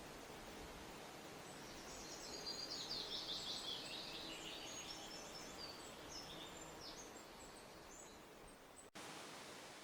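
Songbirds chirping, with faint high notes and a burst of rapid twittering song between about two and five seconds in, over a steady background hiss. Near the end the sound cuts abruptly to a hiss that fades away.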